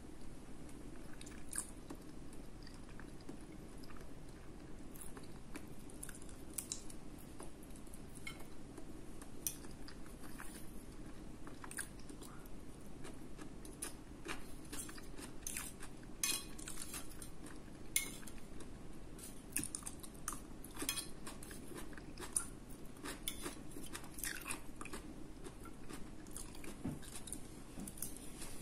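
A person chewing food close to the microphone, with many irregular wet clicks and smacks of the mouth.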